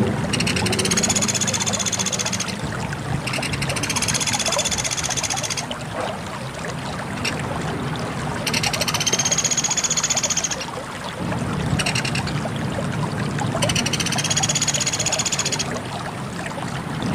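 Pelatuk beras woodpecker calling: four high, rapid chattering trills, each about two seconds long, repeated every four to five seconds. A steady low rushing noise runs underneath.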